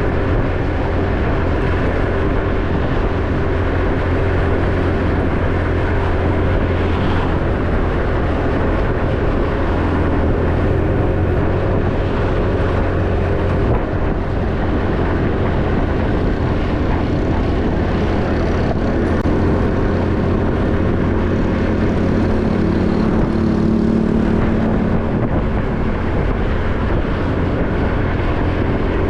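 Motorbike engine running while riding, heard from a camera mounted on the bike, mixed with road and wind noise. The level stays even, with some engine tones shifting in pitch past the middle.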